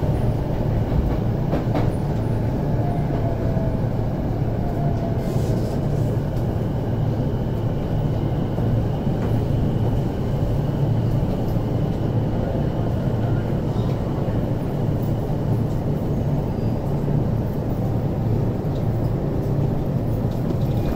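Interior running noise of a JR Sobu Line E231-series commuter car slowing to a stop at a station platform: a steady low rumble and hum, with a faint motor whine about a second in.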